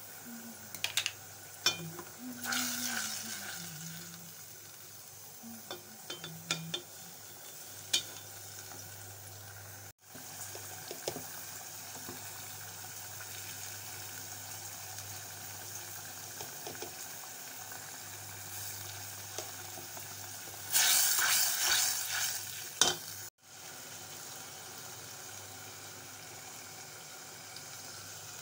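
Tomato masala sizzling as it fries in a stainless steel pot, with a steel ladle scraping and stirring through it. The ladle clatters in short bouts, loudest about two-thirds of the way in.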